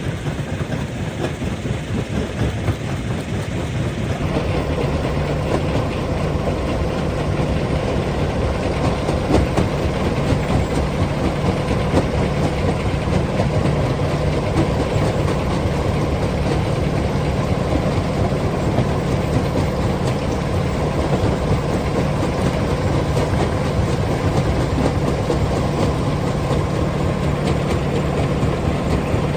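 Rock crusher running, with a steady machine drone under a continuous clatter of stone. It grows louder about four seconds in.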